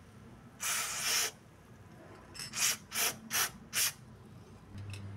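Aerosol spray lubricant (Vaselina Car 80) hissing out through its straw onto rubber suspension bushings. One spray lasts about half a second, then five short quick squirts follow. A low steady hum comes in near the end.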